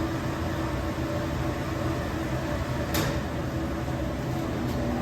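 Steady low mechanical hum with one sharp click about three seconds in.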